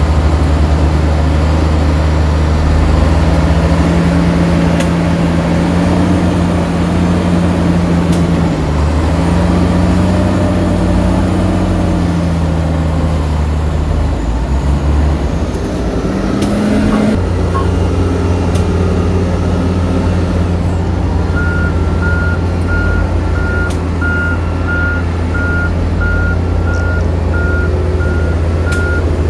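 Heavy diesel engine of earthmoving machinery running steadily, its pitch dipping and rising briefly near the middle as it works. In the last third a reversing alarm starts, beeping evenly at about one and a half beeps a second.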